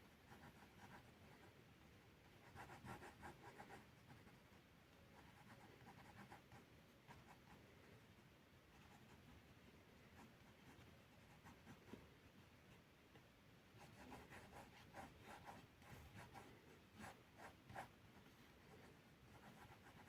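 Faint scratching of drawing strokes on notebook paper, quick strokes in short runs about three seconds in and again from about fourteen to eighteen seconds in, over a low background hiss.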